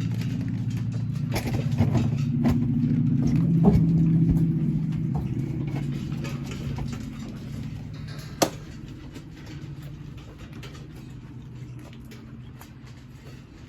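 A vehicle engine running with a steady low hum and scattered rattling clicks. It grows a little louder in the first few seconds, then fades gradually through the second half, with one sharp click about eight seconds in.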